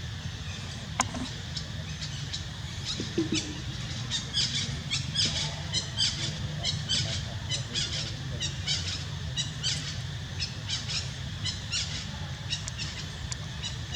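A quick string of short, high chirping calls, several a second, starting about three seconds in, over a steady low rumble. A single sharp click about a second in.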